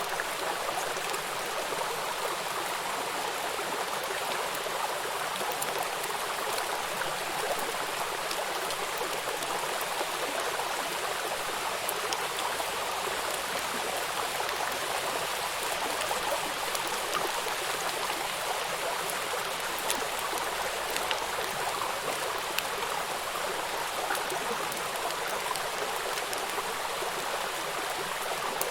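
Water rushing over rocks in a small river waterfall, a steady splashing hiss with small droplet ticks scattered through it.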